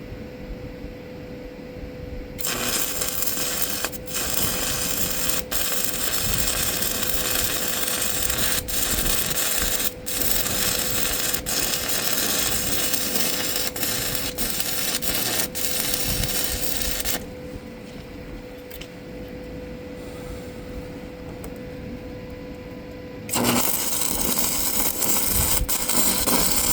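Stick welding arc from an ESAB Handyarc welder, crackling and hissing with sharp pops. It starts suddenly a couple of seconds in, runs for about fifteen seconds, stops, then a second bead starts near the end.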